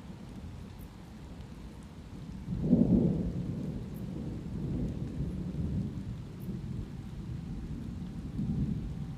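Thunder rumbling over steady light rain, with a louder roll of thunder swelling about two and a half seconds in and slowly dying away.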